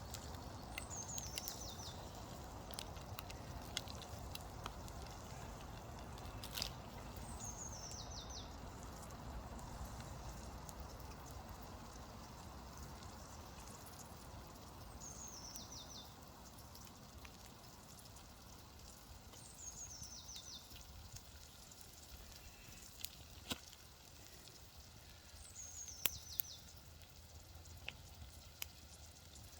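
Quiet woodland ambience: a small bird repeats a short phrase of high notes falling in pitch five times, every five to seven seconds, over a faint low rush, with a few sharp clicks.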